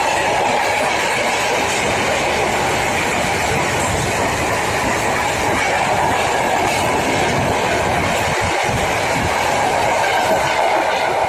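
Freight train passing close by, its wagons rolling steadily over the rails.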